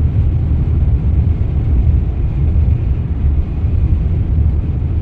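Steady low rumble of a car driving along a highway, heard inside the cabin: road and engine noise.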